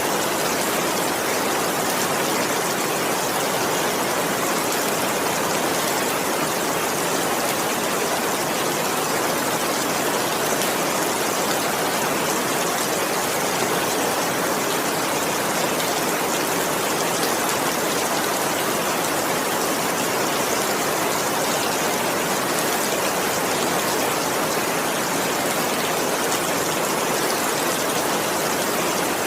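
Steady heavy rain, an even dense hiss with no separate drops standing out.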